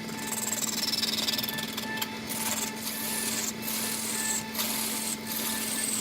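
Wood lathe running with a steady hum while a tool scrapes against the spinning wood, giving a high hissing scrape that breaks off briefly every second or so as the tool lifts.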